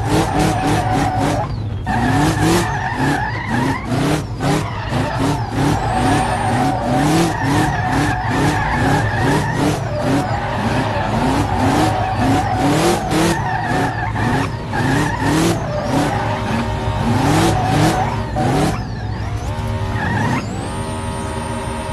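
Vehicle engine revving in quick, repeated rising surges while the tyres squeal. Near the end the squeal gives way to steadier tones.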